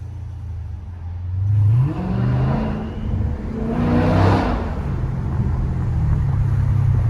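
Dodge Challenger 1320's V8 with a muffler delete accelerating hard: the revs climb, drop at a gear change about two seconds in, climb again to a loud peak around four seconds, then settle into a steady drone.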